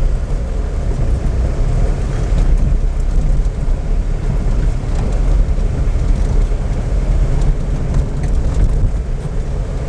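A car on the move: steady low engine and road rumble.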